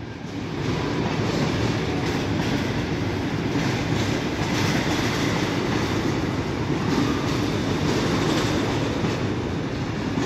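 Freight train of rail tank wagons rolling past at a steady speed: a continuous rumble and clatter of wagon wheels over the rail joints, a bit of a racket.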